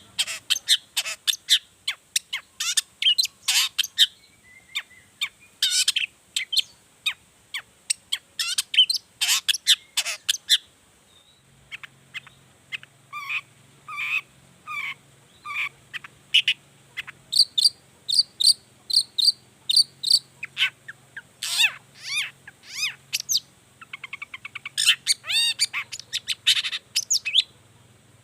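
Long-tailed shrike (cendet) singing hard: a fast, varied run of sharp chirps and whistled notes, pausing briefly about eleven seconds in, then series of evenly repeated notes about two to three a second.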